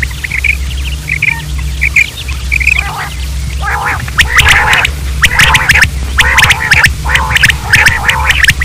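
Quails calling: soft, short, high chirps at first, then from about three and a half seconds louder, harsh, rasping calls in quick groups. A steady low hum runs underneath.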